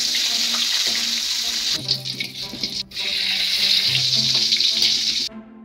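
Sliced shallots and garlic frying in hot oil in a wok, sizzling loudly in two long stretches with a short lull between, cut off abruptly near the end. Soft background music plays underneath.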